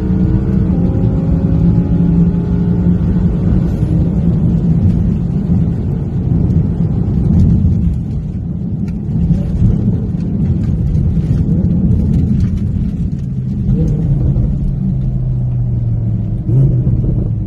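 High-performance car engines accelerating hard, their pitch climbing over the first few seconds, then a heavy low rumble, with a steadier low engine tone in the last few seconds.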